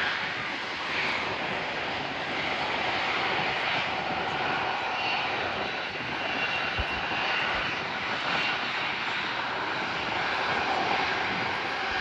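Jet airliner's engines running, a steady, unbroken noise, with a couple of brief low thumps about seven seconds in.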